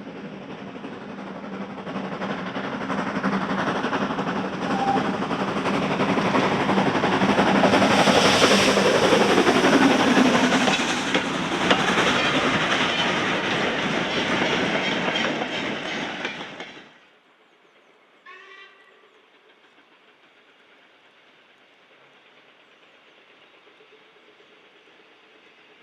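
A train passing close by, its wheels clattering rhythmically over the rail joints, growing louder to a peak and then stopping abruptly about seventeen seconds in. Afterwards there is only faint ambience with one brief higher sound just after the cut.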